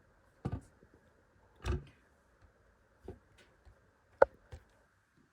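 Kitchen utensil knocking and clicking against a bowl: a few scattered taps, a duller scrape-like knock about a second and a half in, and the sharpest click about four seconds in.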